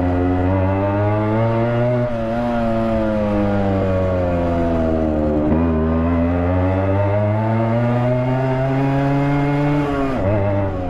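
Yamaha RX100's two-stroke single-cylinder engine, its silencer baffle mesh removed, running loud under riding. The pitch climbs for about two seconds, sinks slowly until about five and a half seconds, climbs again, and drops sharply near ten seconds.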